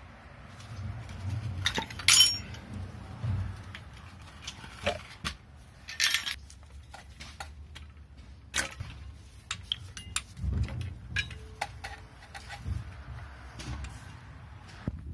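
Wrenches and sockets clinking and knocking against metal engine parts during teardown. There is a sharp ringing clink about two seconds in, another around six seconds, and lighter taps scattered through the rest.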